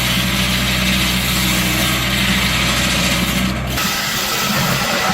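Powered wood-cutting machinery running steadily with a low engine drone. About four seconds in, the sound changes abruptly to a different, thinner machine sound with little low end.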